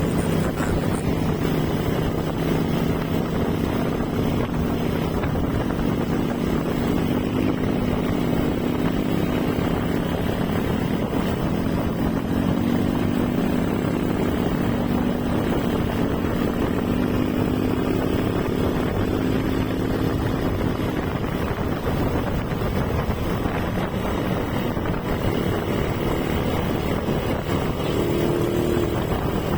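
Motorcycle engine running steadily at cruising speed, its pitch drifting slightly with the throttle, with wind rushing over the microphone.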